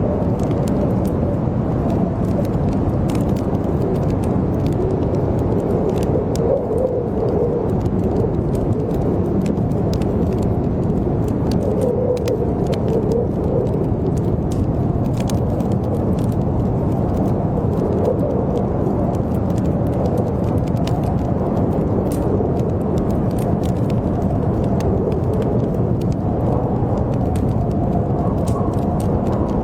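Blizzard wind blowing steadily with a low howl that wavers in pitch, over faint crackles from a wood fire.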